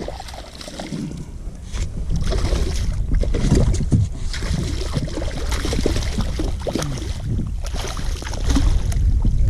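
Water splashing and sloshing around a kayak, with irregular splashes from about two seconds in, over a steady rumble of wind on the microphone.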